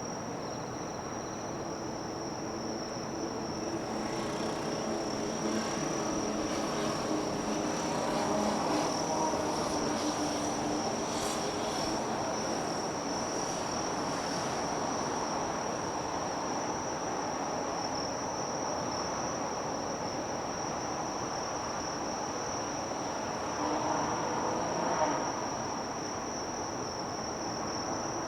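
Insects keeping up a steady high-pitched trill over harbour background noise, with a low distant engine rumble that swells up in the first half and briefly again near the end.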